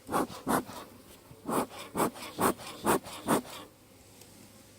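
Bee smoker's bellows being pumped: seven short puffs of air, two quick ones, a pause of about a second, then five more about half a second apart. The beekeeper is sending smoke over the frames to calm agitated bees.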